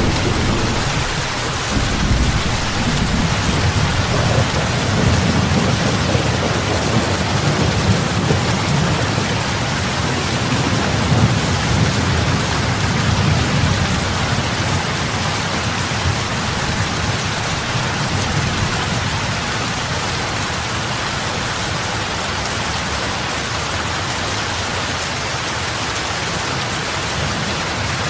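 Heavy rain falling onto lake water, a steady dense hiss of drops. A low rumble rolls under it through the first half and fades away about fifteen seconds in.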